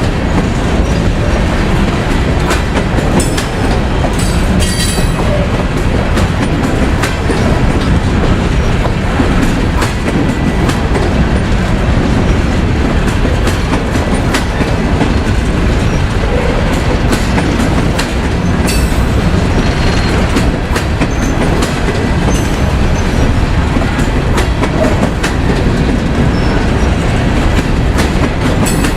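Freight train cars rolling past close by: a steady loud rumble with the clatter of wheels over rail joints and brief, faint wheel squeals now and then.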